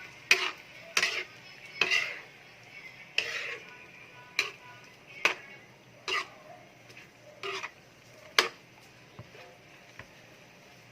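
A cooking utensil stirring chicken in evaporated milk in a pan: sharp knocks and scrapes against the pan, roughly one a second, ending about eight and a half seconds in.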